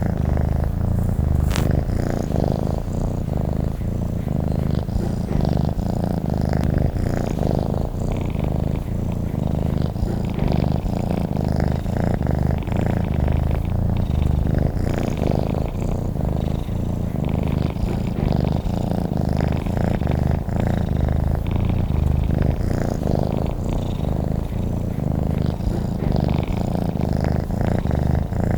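Domestic cat purring steadily and continuously, close to the microphone, with a fast, even pulsing rhythm.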